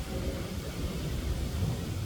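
Wind buffeting an outdoor microphone: a low, uneven rumble that flutters unsteadily.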